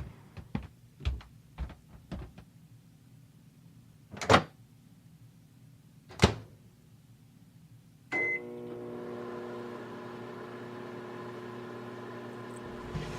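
Microwave oven being used: a few soft knocks, two sharp clacks of its door, a short beep as it is started, then the oven running with a steady hum for the last five seconds or so, heating a warm water bottle.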